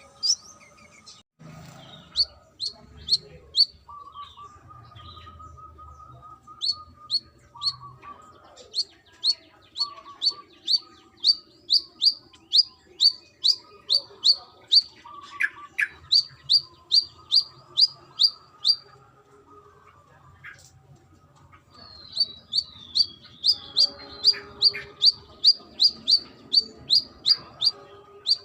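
Brown-throated sunbird (kolibri kelapa) calling: long runs of sharp, high chips, each falling in pitch, about three a second, broken by a couple of short pauses.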